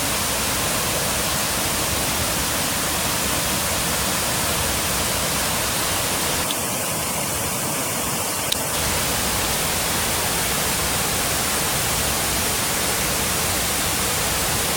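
Kuang Si Falls' cascades making a steady rushing noise of falling water, briefly duller in tone for a couple of seconds around the middle.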